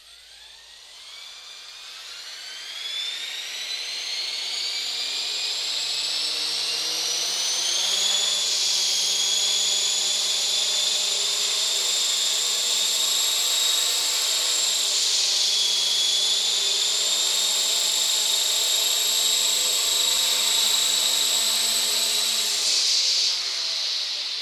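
A radio-controlled model's motor spinning up a four-bladed rotor on its first run-up. The high whine rises for about eight seconds and then holds steady, with a lower rotor hum beneath it. It dips briefly about two-thirds of the way through, then winds down near the end.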